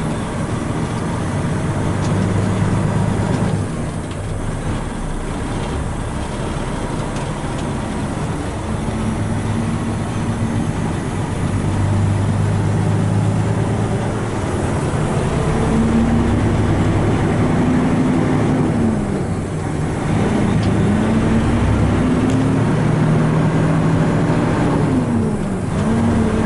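Truck engine pulling a loaded equipment trailer on the road, running steadily and climbing in pitch, then dropping back at gear changes, twice in the second half.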